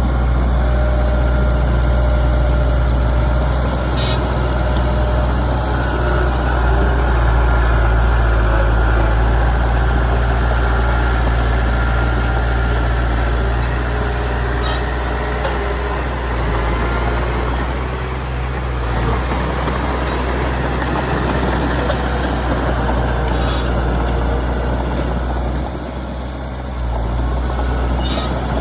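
Heavy diesel engine of earthmoving equipment running steadily with a deep rumble. A few brief sharp clicks or clanks stand out over it.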